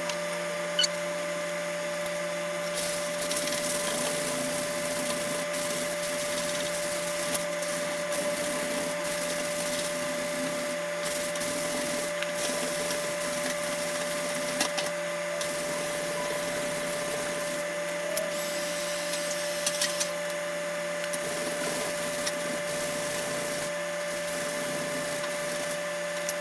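A small electric motor running steadily with a rushing of air and a constant hum, with a few light clicks and taps.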